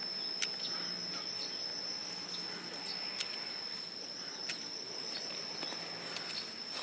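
A steady, high-pitched insect trill, cricket-like, running without a break. A few faint sharp ticks are heard, about half a second, three seconds and four and a half seconds in.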